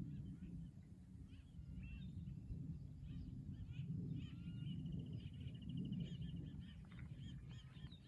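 Several wild birds chirping and calling, with a fast, even trill lasting about a second and a half near the middle, over a low, fluctuating rumble.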